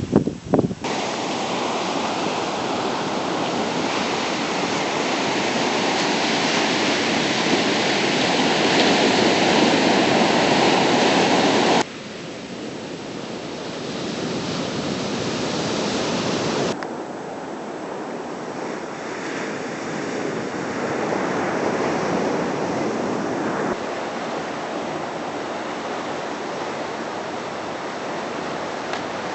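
Pacific Ocean surf washing continuously. It swells gradually for the first several seconds, then drops abruptly about twelve seconds in, and again a few seconds later.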